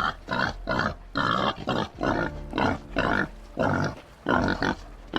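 White-lipped peccary calling in a steady run of short, rough grunts, about three a second.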